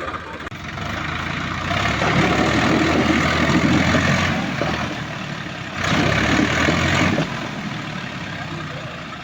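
Heavy diesel engine revving hard under load in two surges, a long one about two seconds in and a shorter one about six seconds in, then dropping back to a lower run.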